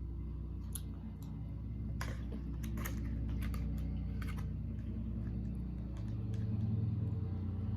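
Scattered light clicks and taps of eating utensils against a food container, over a steady low hum.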